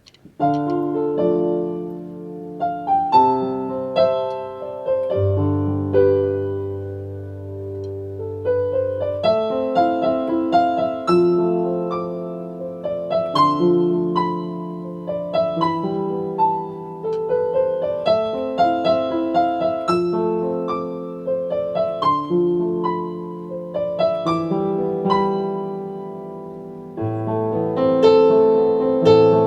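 Piano playing a flowing piece of broken chords over held bass notes. It grows louder about three seconds before the end.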